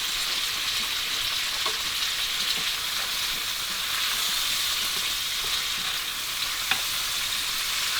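Mushrooms sizzling in a hot pan as they are stir-fried, a steady high hiss, with a couple of light clicks, the sharper one near the end.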